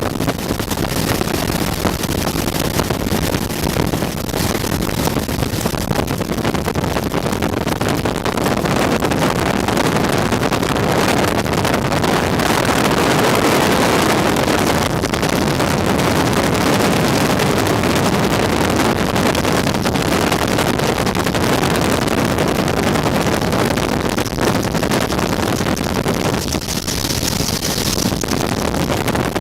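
Bell UH-1 Huey helicopter in flight, heard from inside its open-door cabin: the loud, steady noise of the turboshaft engine and main rotor, mixed with wind buffeting the microphone.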